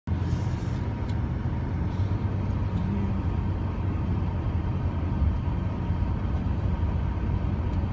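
A vehicle running, a steady low rumble that holds without change.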